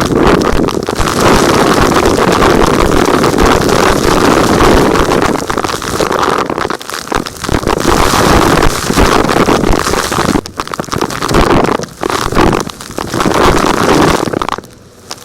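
Vacuum cleaner running loudly while sucking up small rocks, with a dense crackle of debris throughout. The sound dips briefly a few times, most deeply near the end.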